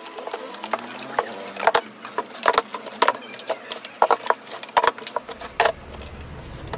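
Irregular sharp clicks, knocks and rustles of cardboard boxes and plastic packaging being handled during unboxing. A low steady rumble comes in near the end.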